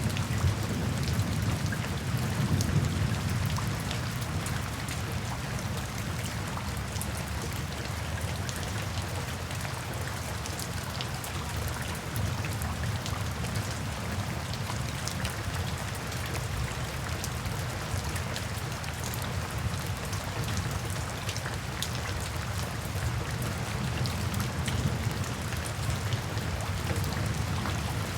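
Steady rain falling in a forest, with many individual drops striking close by. Underneath is a low rumble, heaviest in the first few seconds, easing, then swelling again near the end.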